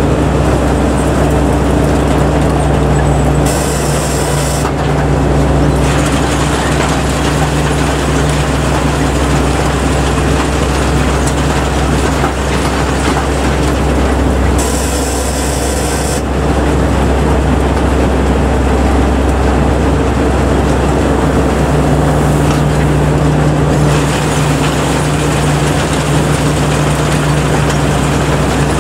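Kaset Phattana rice combine harvester running steadily, its engine hum and machinery noise continuous. A brief hiss rises over it twice, a few seconds in and about halfway through.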